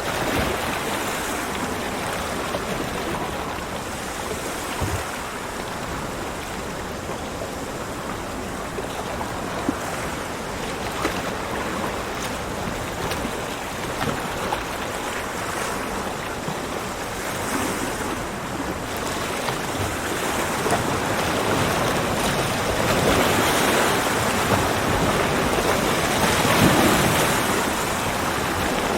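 Ocean surf washing on a beach, a steady rush of breaking waves that swells louder in the second half.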